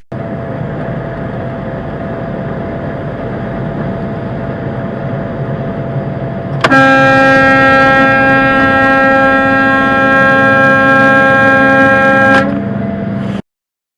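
Steady road noise, then a vehicle horn sounds about seven seconds in and is held for about six seconds on one steady pitch before cutting off; the audio drops out a second later.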